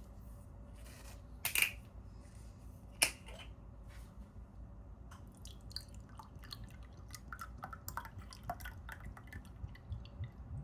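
Scattered light clicks and taps, with two louder sharp knocks about one and a half and three seconds in, and a flurry of small ticks in the second half.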